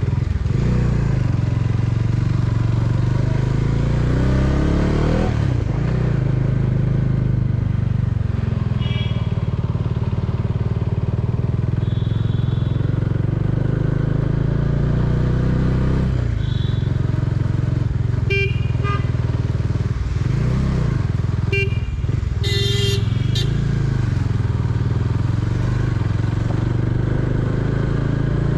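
Bajaj Dominar 400's single-cylinder engine running under load as the motorcycle pulls up a steep mountain road at low speed. Its pitch rises and falls a few times with the throttle, dipping near the middle and again about two-thirds of the way in.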